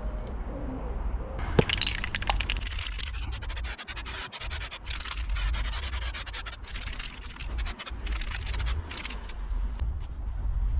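Rough, continuous abrasive scraping of loose rust being cleaned off a rusty steel exhaust mounting plate. It starts about one and a half seconds in, over a low hum.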